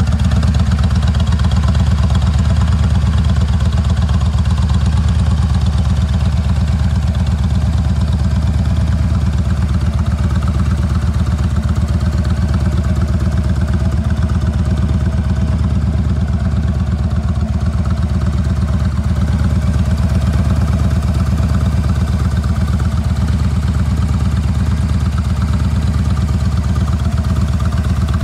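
Yamaha XVS1300 Stryker's V-twin engine idling steadily through a swept Vance & Hines exhaust, a low, even pulsing beat.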